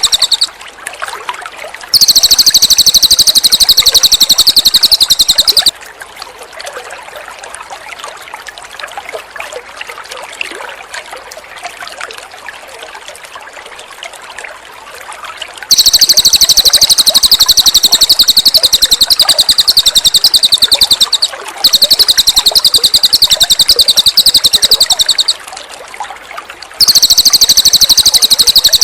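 Cililin songbird singing a loud, very fast, high-pitched chattering trill in four bouts of several seconds each. Between the bouts, trickling water runs steadily on its own.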